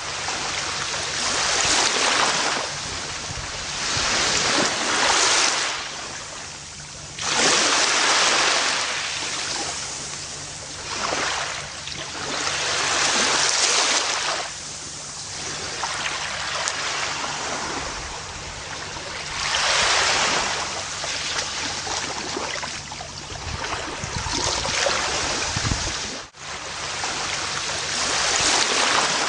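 Gentle ocean waves breaking and washing up a beach, the surf swelling and falling back every few seconds. The sound cuts out for an instant once, near the end.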